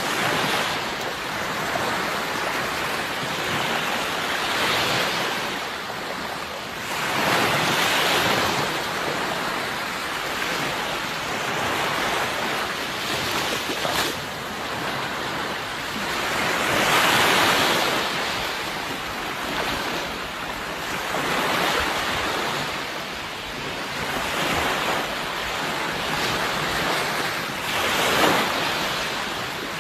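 Sea waves breaking and washing on the shore, the surf swelling and falling back in surges every few seconds.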